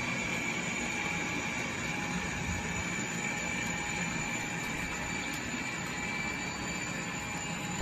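Model train running on the layout: a steady hum and rolling noise with a constant high whine.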